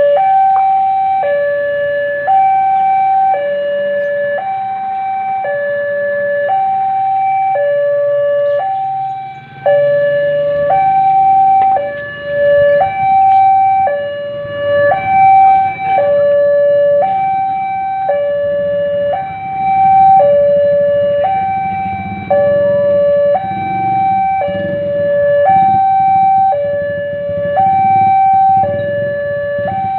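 Railway level-crossing warning alarm sounding a repeating high-low two-tone signal, about one cycle every two seconds, the warning that a train is approaching and the gates are closing. A low rumble builds underneath from about a third of the way in.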